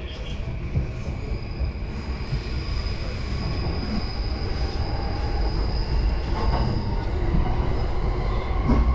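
Inside a JR Yamanote Line E235-series commuter train running between stations: a steady low rumble of wheels on track that slowly grows louder. A thin, steady high-pitched whine sits over it from about a second and a half in until about seven seconds.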